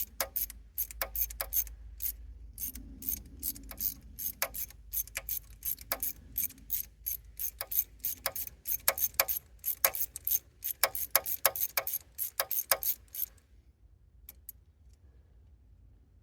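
Hand socket ratchet clicking in quick, irregular runs as a glow plug is being unscrewed from the diesel engine's cylinder head. The clicking stops about thirteen seconds in.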